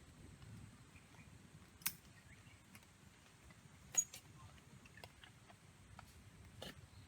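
A few scattered sharp clicks and taps over a faint low background, the loudest about two and four seconds in.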